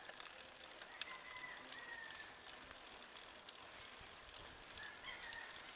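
Faint distant rooster crowing, one drawn-out call about a second in and another short one near the end, over a low outdoor hiss with a few scattered light clicks.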